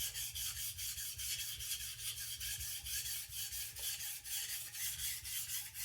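Steel chef's knife edge scraping back and forth on a sharpening stone in quick, even strokes under light pressure, grinding a fresh edge onto a badly dulled blade that has not yet raised a burr.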